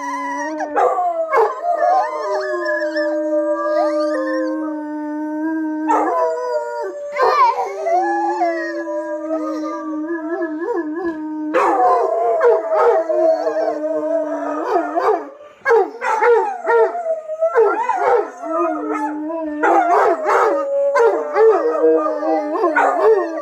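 Several dogs howling together: long, drawn-out howls, some held on one pitch and others wavering up and down.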